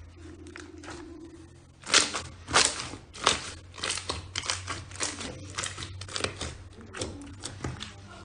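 Slime being pressed and squeezed by hand, giving sharp crackling pops about twice a second, beginning about two seconds in.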